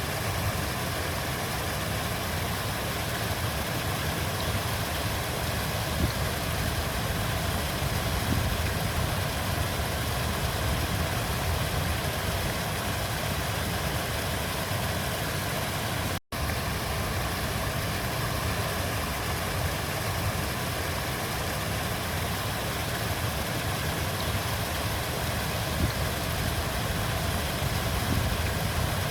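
Flowing river water, a steady rush with a low rumble underneath, cut by a momentary dropout to silence about halfway through.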